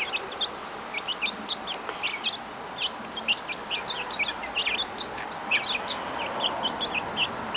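A group of young chicks peeping constantly, many short high cheeps overlapping.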